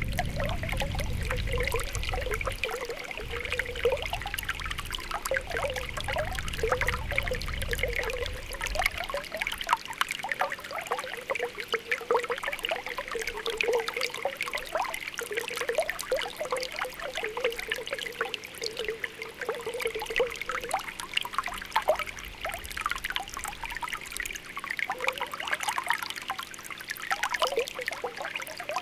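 Spring water welling up from the ground with a continuous popping, bubbling sound: many small bubble pops over a light trickle. A low rumble underneath fades out about nine seconds in.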